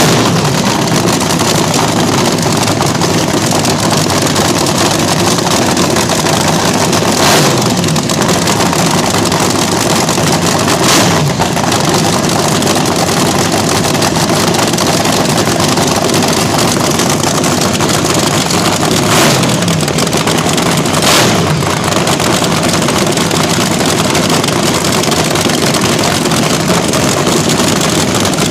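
Vintage slingshot drag racer's open-header engine running super loud on the street, with four sudden sharp blips or cracks standing out from the steady noise.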